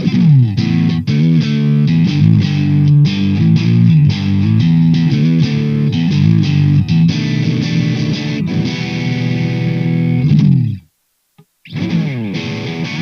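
Electric guitar with two humbucker pickups, played through overdrive in a riff with sustained chords and single notes. It stops about eleven seconds in, and after a short silence it starts playing again.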